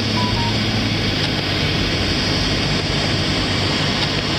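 Steady cabin noise of a four-wheel-drive vehicle driving: engine hum and tyre and road noise, with a short double beep near the start.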